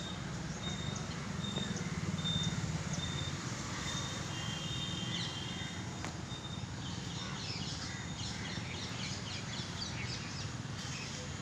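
Outdoor ambience with birds calling: a short high note repeated about twice a second for the first few seconds, then a flurry of chirps in the second half, over a steady low background rumble.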